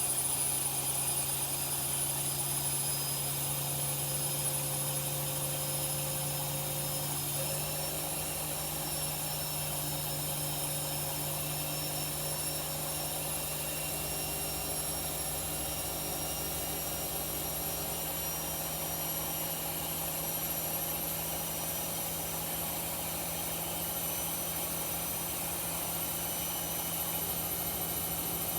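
Front-loading washing machines spinning at high speed: a steady low hum with a high motor whine that steps up in pitch about seven seconds in, then keeps creeping higher as the drum gathers speed.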